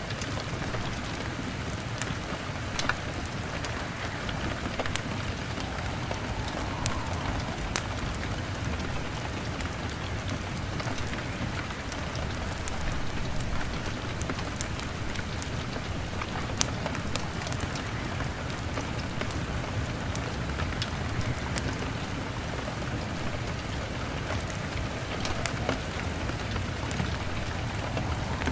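Steady rain on a window, a continuous patter, with scattered sharp pops and crackles of a wood fire every second or two.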